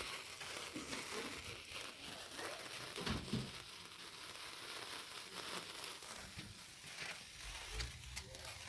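A hand-held sparkler burning with a steady fizzing crackle of many tiny ticks.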